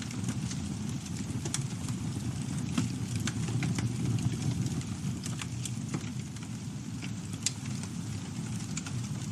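Campfire burning: a steady low roar of flames with irregular sharp crackles and pops of burning wood.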